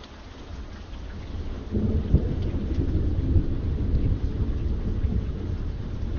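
Steady rain with a roll of thunder: a deep rumble builds over the first two seconds, peaks about two seconds in, and rolls on under the rain, easing slightly toward the end.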